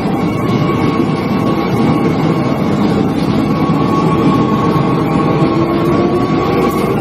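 Train running on the rails: a steady, loud rumble of wheels and carriages with a thin held tone above it.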